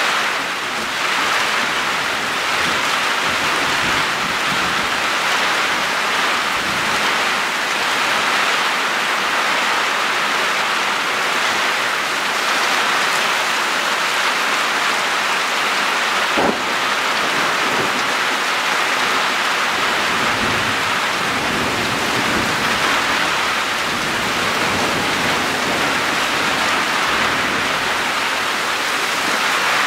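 Heavy rain pouring steadily in a thunderstorm downpour, an even dense hiss of rain on the ground, roofs and foliage. A single sharp click about halfway through.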